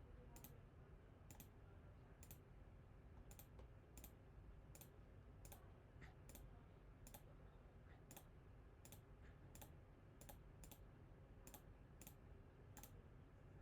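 Faint computer mouse clicking, single irregular clicks about once or twice a second, over a steady low background hum.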